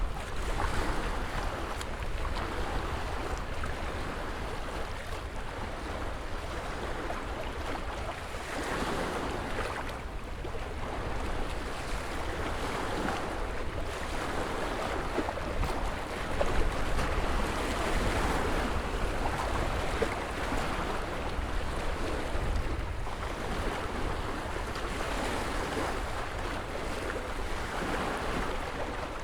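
Ocean surf: waves breaking and washing in, swelling louder and falling back every few seconds over a constant low rumble.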